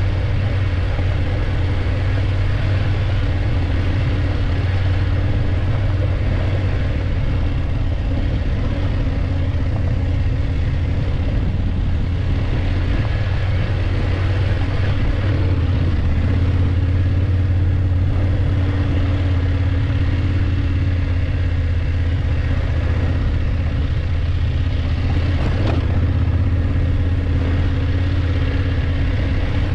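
BMW F850GS parallel-twin motorcycle engine running steadily under way, its pitch shifting slightly partway through, with one faint click near the end.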